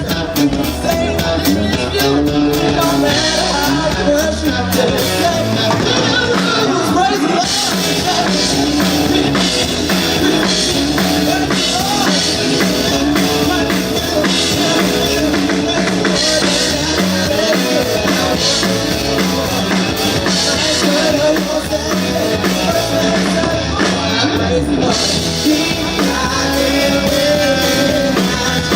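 A live band playing rock-style music, with a singer, guitar and drum kit.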